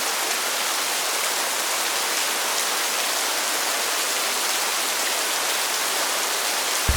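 A steady, even hiss like heavy rain, with no rumble or separate drops standing out.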